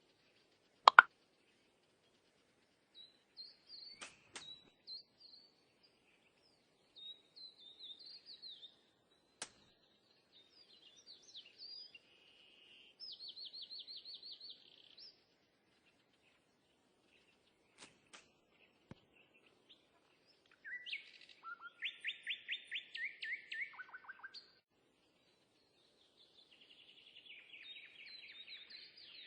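Birds chirping, with short high trills in between. A sharp click sounds about a second in, and fainter ones follow at about 4 and 9 seconds.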